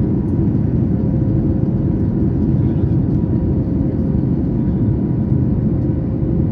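Boeing 737 MAX 8 cabin noise in the climb after takeoff: its CFM LEAP-1B engines and the airflow make a constant low rumble, with a faint steady hum over it.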